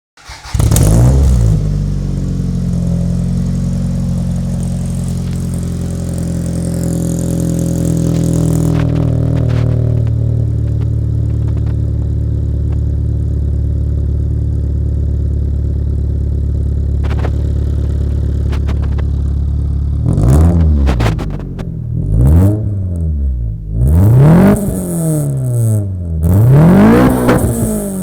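Toyota Celica T20's 3S-GE 2.0-litre 16-valve four-cylinder engine through a Powerflow exhaust: it fires up with a brief loud flare, settles into a steady idle, then is revved four times from about two-thirds of the way through, each blip climbing higher before dropping back to idle.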